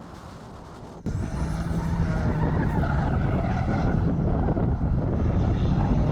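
Car engine idling steadily, cutting in abruptly about a second in over faint wind noise.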